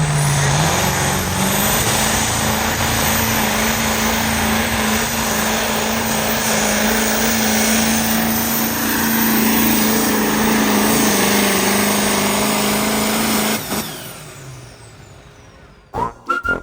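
A pulling vehicle's engine running flat out under load during a hook, with a loud steady engine note that is cut off about fourteen seconds in. Rhythmic music begins near the end.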